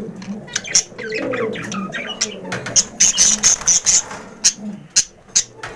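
Budgerigars chattering, with a rapid run of short, sharp chirps and quick warbles. A male is in breeding condition with a newly introduced hen.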